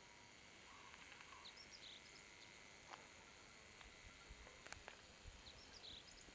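Near silence: faint outdoor ambience with a few soft, short bird chirps and some soft low thumps in the second half.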